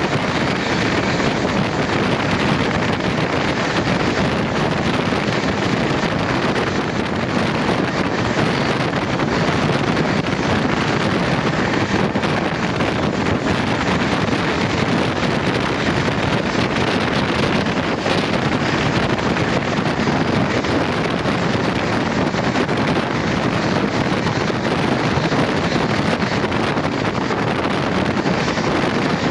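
Steady rushing noise of a moving train, with wind buffeting the microphone.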